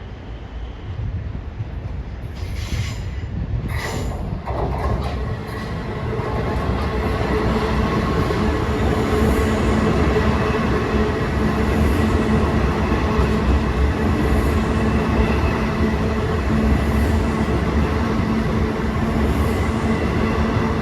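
Long Island Rail Road train coming through the station, growing louder over the first six seconds or so and then holding a steady, loud rumble with a sustained whine. Two short hisses come a few seconds in.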